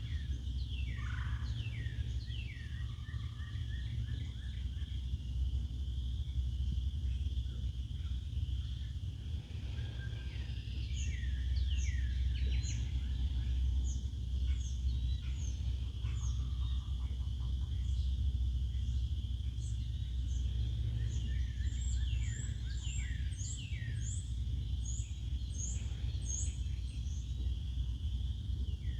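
Songbirds calling in the woods: many short, quick, downward-slurred chirps, busiest in the second half, over a steady high-pitched background chorus and a constant low rumble.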